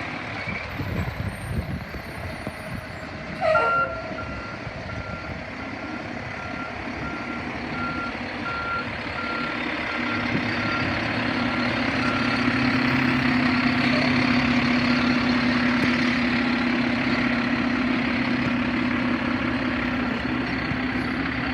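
Mack LEU garbage truck with a Labrie Automizer side-loader body: the diesel engine runs while the reversing beeper sounds at an even pace, starting after a brief loud squeal about three and a half seconds in. From about ten seconds in the engine runs up to a higher, steady speed and gets louder.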